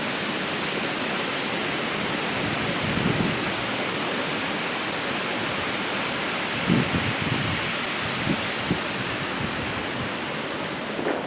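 Steady rushing of water pouring over a small canal waterfall. A few brief low thumps about seven to nine seconds in.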